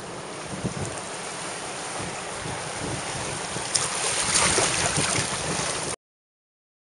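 Sea surf and wind blowing on the microphone, growing louder a little under four seconds in as a bigger wave surges. The sound stops abruptly about six seconds in.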